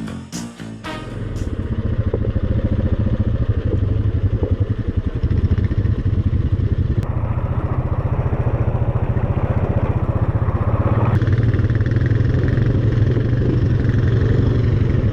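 ATV engine running steadily as the quad rides along a rough gravel road, heard from on board. A few strummed guitar notes end in the first second or so.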